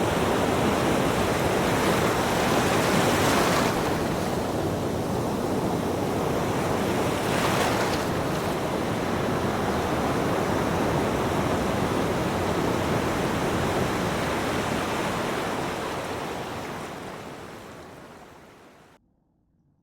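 Ocean waves washing in a steady rush, surging louder twice, about three and seven seconds in. The sound then fades out and drops to near silence just before the end.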